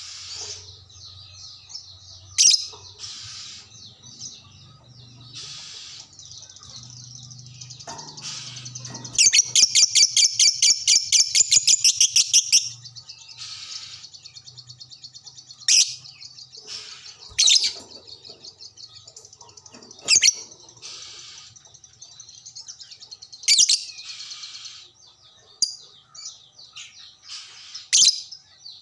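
Lovebird chattering without pause, with a loud rapid trill of about seven pulses a second held for some three and a half seconds about a third of the way in, and sharp shrill calls every couple of seconds.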